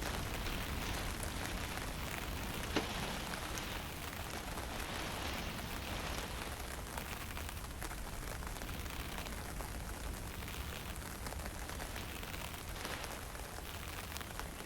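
Steady hiss of fine drizzle and wind, with a low rumble of wind against the microphone and a hiss that swells and eases every few seconds. A single sharp tick comes about three seconds in.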